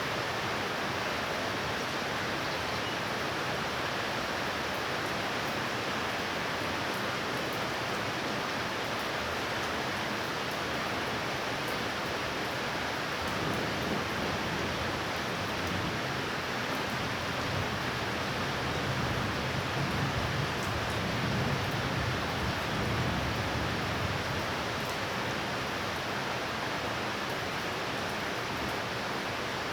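Heavy thunderstorm rain falling steadily, an even hiss of downpour. About halfway through, a low rumble swells and then fades back into the rain.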